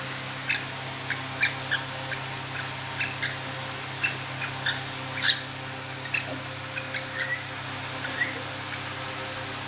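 Female cockatiel's mating call: short, high chirps repeated irregularly, one or two a second, stopping near the end. A steady low hum runs underneath.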